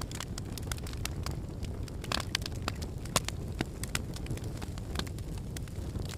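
Wood fire burning in a fireplace: logs crackling and popping irregularly over a low, steady rumble of the flames.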